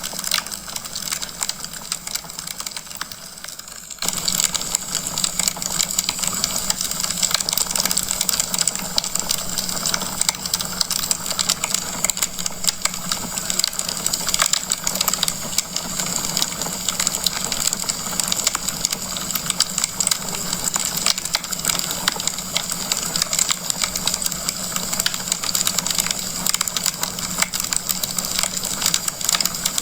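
Wood fire crackling, a dense run of small pops and snaps over a steady hiss. It gets abruptly louder about four seconds in and then holds steady.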